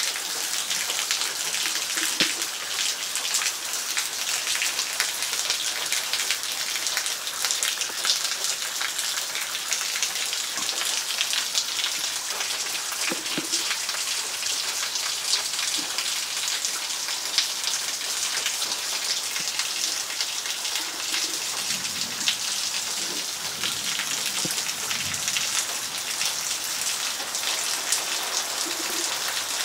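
Heavy rain falling steadily: a dense hiss of drops, with many small sharp ticks of nearby drips.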